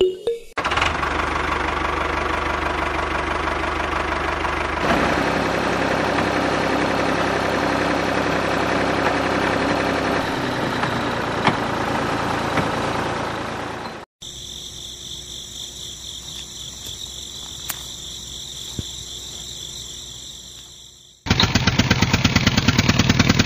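Small electric motor of a homemade model chaff cutter running. It goes through three runs: a steady whirr, then a quieter stretch with a high whine, then a louder, fast, even rattle starting near the end.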